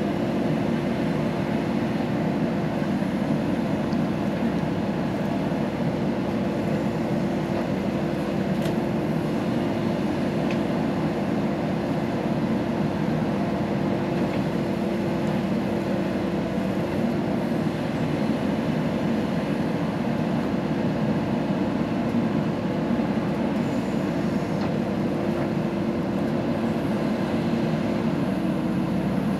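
Diesel engine of a JCB backhoe loader running at a steady, constant pitch.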